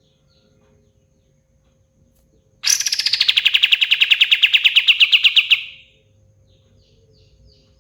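Kapas tembak songbird singing one loud, rapid trill of about eight notes a second for roughly three seconds. The trill opens with a falling sweep, and faint short chirps follow it.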